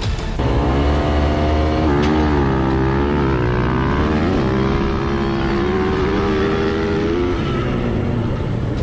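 Dirt bike engine revving, its pitch climbing and falling repeatedly as the throttle is worked.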